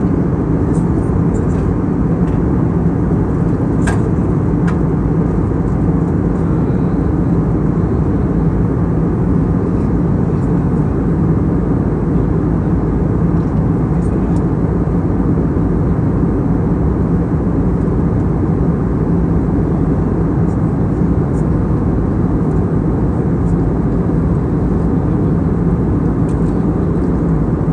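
Steady low drone inside the cabin of an Airbus A320neo in flight, the engines and airflow heard through the fuselage, with a few faint clicks about four seconds in.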